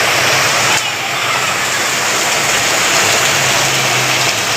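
Heavy rain falling, a steady loud hiss, with a faint low hum beneath it that is strongest near the end.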